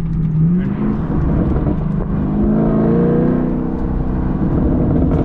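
Chevrolet Camaro SS's 6.2-litre LT1 V8 through an MBRP cat-back exhaust, revving up under acceleration about two seconds in and then easing off, with a few pops from the exhaust as the throttle closes.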